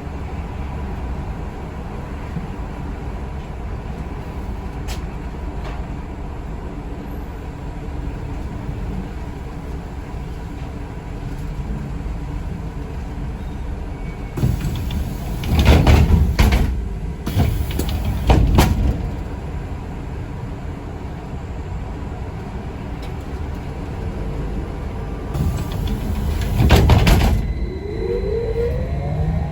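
Interior of a city bus or trolleybus: a steady running rumble. About halfway through, its doors open with two loud bursts of noise. Near the end they close again with another burst, and then a rising whine follows as the vehicle pulls away.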